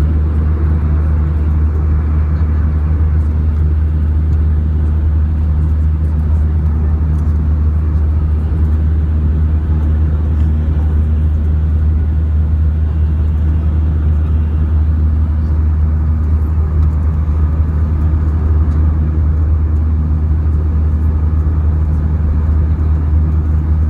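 Steady low rumble of an airliner's engines and airflow heard inside the passenger cabin, even in level throughout.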